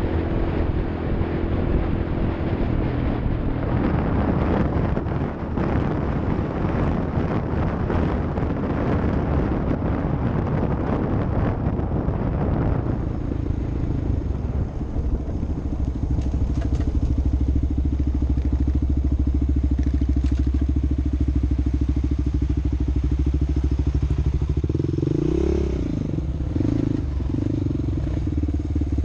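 Off-road vehicle engine running, with rattling and clatter over the first half. It then settles to a steady low drone, with a brief rev up and down near the end.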